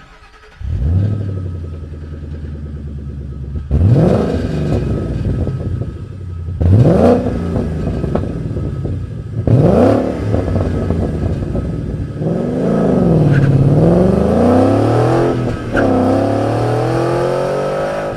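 Ford Mustang GT's 5.0 L Coyote V8 through a Borla Touring cat-back exhaust, with its large straight-through packed mufflers, starting up with a flare and settling to a deep idle. It is then blipped sharply three times, and near the end the revs swell and fall more slowly before holding higher.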